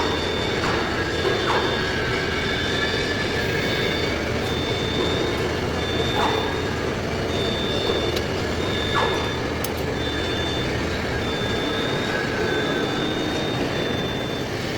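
Heavy-duty lathe turning a large steel workpiece: steady machine and cutting noise with a high-pitched squeal that breaks off and returns about once a second.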